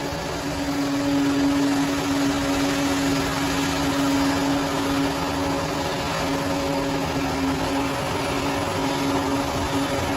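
Bulldozer diesel engine running steadily under work, with a steady droning tone over the machine noise; it gets a little louder about a second in.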